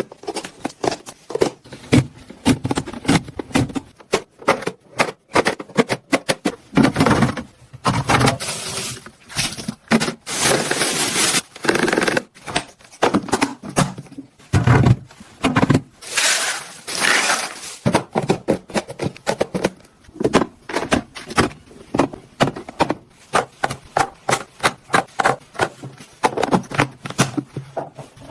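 Many clicks, knocks and rustles of food containers and plastic bags being handled and put away in a refrigerator, with longer stretches of crinkling now and then.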